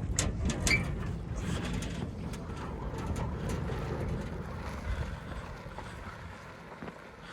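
Dodge D150 pickup rolling slowly as it is pushed by hand: a low rumble of the tyres on the ground, with a few sharp clicks in the first second, fading toward the end.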